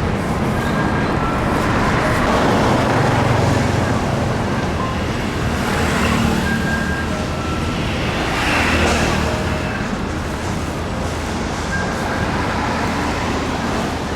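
Road traffic: a steady rumble of vehicles, with several passing close by one after another.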